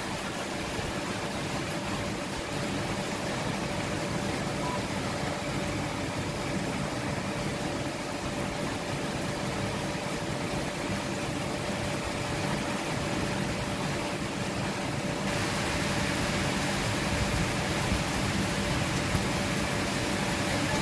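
Heavy rain falling: a steady hiss that grows a little brighter about two-thirds of the way through, with a faint steady hum beneath it.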